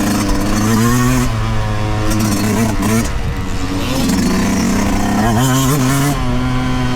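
2023 Yamaha YZ125's 125cc single-cylinder two-stroke engine revving up and down on the throttle, its pitch climbing and dropping several times.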